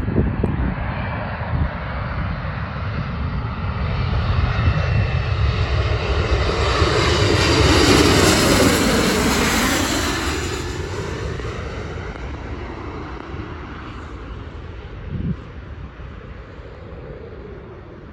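An airplane passing close by: its engine noise builds to a peak about eight seconds in, drops in pitch as it goes past, then fades away. Wind buffets the microphone with a low rumble throughout.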